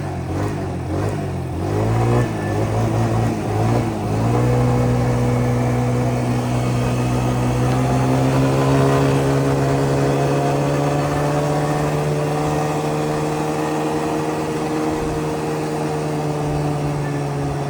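Small single-cylinder engine of a Yamaha Grizzly 125 ATV under way, its pitch wavering for the first few seconds. It then pulls at a steady, slightly rising pitch, easing off a little near the end.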